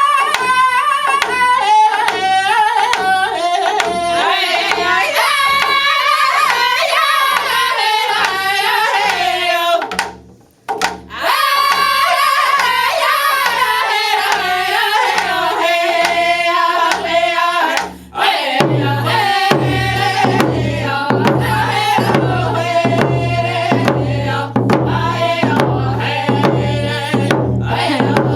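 Round dance song: singers with hand drums keeping a steady, even beat, each sung phrase falling from high to low. There is a brief break about ten seconds in, and near the two-thirds mark the drumming comes to the fore.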